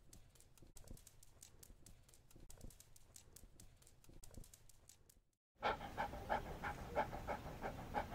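Faint light clicks for about five seconds, then a dog panting in quick rhythmic breaths, about three or four a second, starting suddenly after a short pause.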